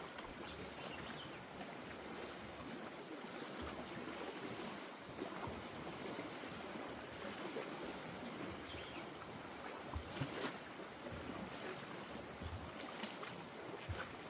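Small waves of lake water lapping steadily, with a few faint scattered knocks.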